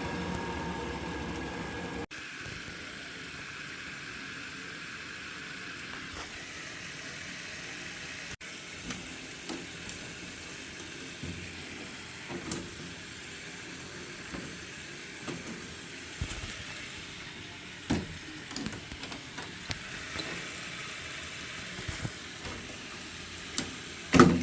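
Worcester-Bosch gas combi boiler running steadily, fired up on central heating, with scattered clicks and knocks of parts being handled and one sharp, louder knock near the end.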